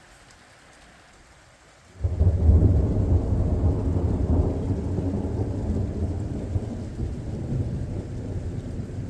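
Steady rain, then about two seconds in a sudden loud, deep thunderclap that breaks in sharply and rumbles on, fading slowly.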